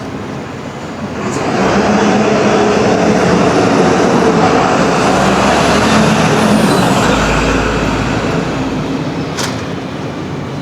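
A heavy road vehicle passing close by in street traffic: its engine swells about a second in, holds with a faint high whine that falls in pitch, then fades near the end. A single sharp click comes shortly before the end.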